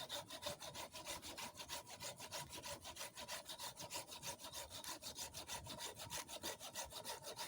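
A saw cutting wood in quick, even rasping strokes, about six or seven a second, keeping a steady rhythm.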